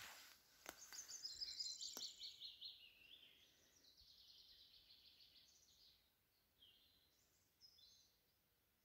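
Faint song of a small wild bird: quick runs of repeated high notes stepping down in pitch, followed by shorter phrases. A couple of sharp clicks come in the first two seconds.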